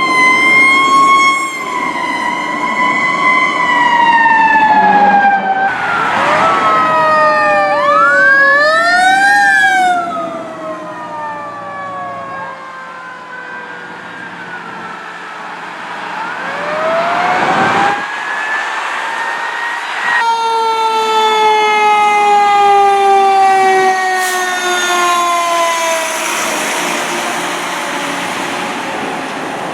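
Fire truck sirens sounding as the apparatus pass: a long, slowly falling siren wail, with quicker rising and falling sweeps over it about six to ten seconds in, then another siren rising and falling away from about twenty seconds in.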